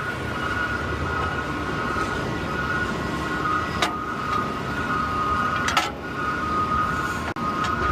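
Peterbilt 520 automated side-loader garbage truck running, heard from inside the cab: steady engine and road noise with a steady high whine, and a few sharp clicks.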